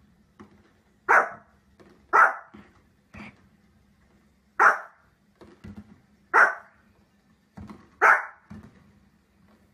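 Small fluffy spitz-type dog barking: five sharp single barks, one to two seconds apart, with fainter short sounds between them.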